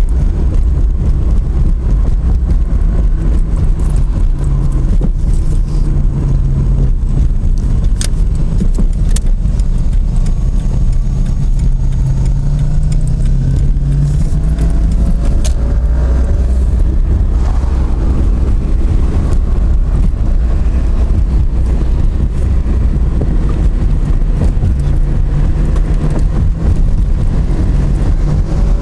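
A car driving: steady low rumble of engine and road noise, with the engine note drifting up and down a little.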